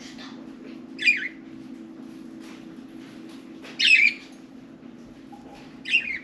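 Budgerigars calling: three short, loud squawks, about a second in, near four seconds and near the end, with faint chirps between, over a steady low hum.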